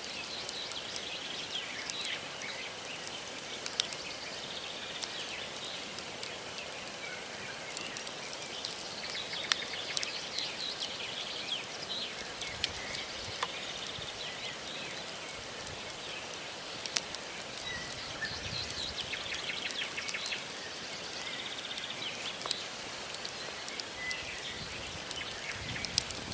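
Wood campfire burning, the logs crackling with sharp, irregular pops over a steady hiss, while small birds chirp now and then.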